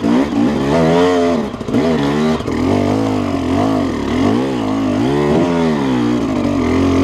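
KTM 300 two-stroke dirt bike engine revving up and down over and over as the throttle is opened and closed while riding.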